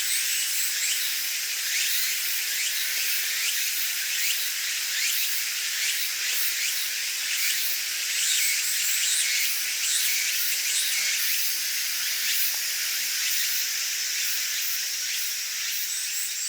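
A dense, steady chorus of cicadas buzzing and shrilling. It is made of many overlapping high calls, with short chirps running through it.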